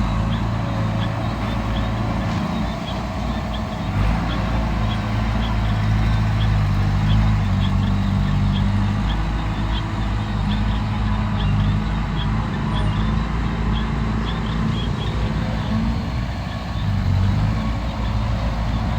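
Heavy diesel engine running steadily with a deep, continuous hum, and faint, evenly spaced ticks high above it.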